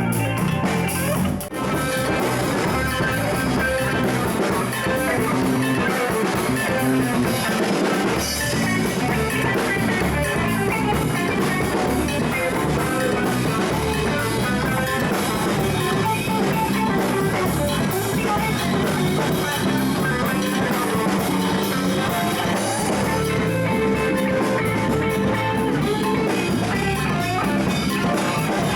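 Live rock jam with electric guitar, bass and drum kit playing a steady groove.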